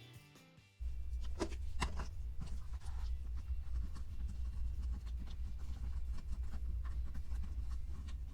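Hands working Play-Doh with the toy set's plastic molds and pieces: scattered light clicks and taps over a steady low rumble. A little background music ends under a second in.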